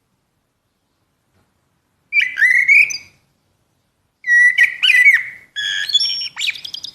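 Common blackbird singing: a short fluted, whistled phrase about two seconds in, then a longer phrase from about four seconds that ends in higher twittering notes.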